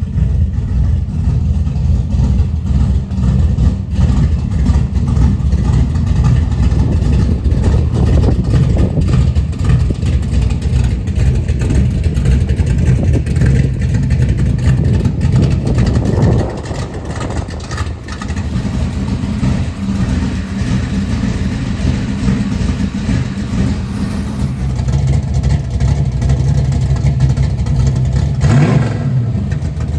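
Carbureted car engine running steadily and loudly, its note dropping briefly a little past halfway before steadying again. The owner calls the engine tired but still healthy, with good oil pressure.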